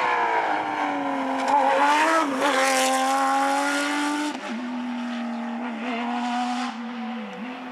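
A Porsche rally car's engine at speed: its pitch drops sharply right at the start as the revs fall, then holds fairly steady with a brief hiss of tyre noise about two to four seconds in, and the sound fades as the car pulls away.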